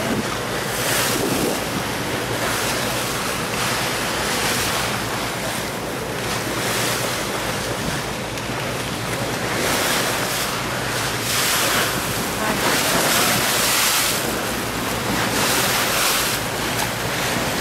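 Wind buffeting the microphone and water rushing past the hull of a moving tour boat, the noise swelling and easing every second or two over a steady low drone.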